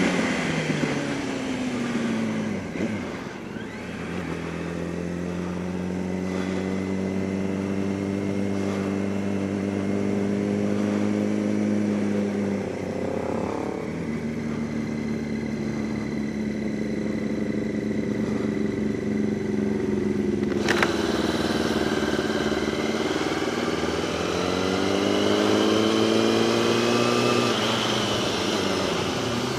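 Motorcycle engine running under way at fairly steady revs, its pitch changing a few times as the revs drop and climb again, over wind noise. A single sharp click comes about two-thirds of the way through.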